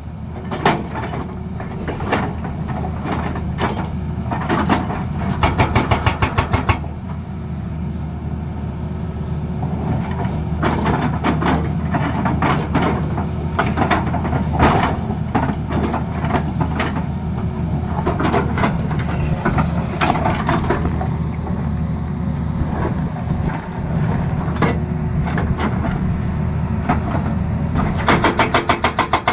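Tata Hitachi excavator's diesel engine running steadily while its hydraulic breaker hammers in runs of rapid, evenly spaced blows, about five seconds in and again near the end, with scattered single knocks in between.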